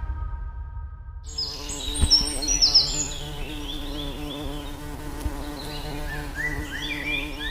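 Held music tones die away about a second in. A steady buzzing hum with a wavering pitch follows, with many short high chirps over it.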